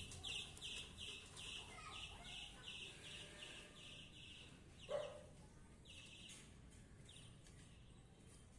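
Faint bird chirping: a rapid run of short, high chirps about three a second that thins out after about five seconds. Around the same moment comes one short, louder call that falls in pitch.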